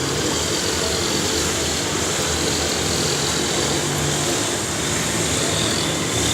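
A motor vehicle's engine running steadily under a constant hiss.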